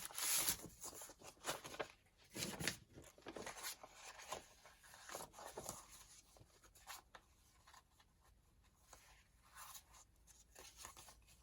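Paper sheets rustling and sliding against one another as they are handled and stacked on a table. The rustles come in irregular strokes, busiest in the first few seconds and sparser and fainter after that.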